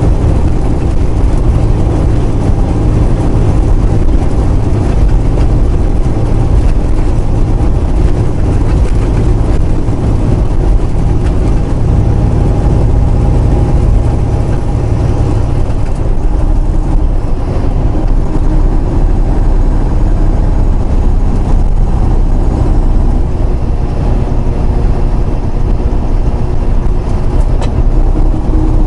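Semi-truck running steadily down the highway, heard from inside the cab: a constant low diesel engine drone with road noise.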